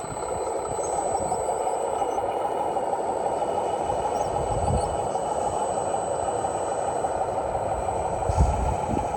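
A 1/18-scale RC truck's small motor and gear drivetrain running steadily, with a thin high whine and a few low thumps, the loudest a little past eight seconds in.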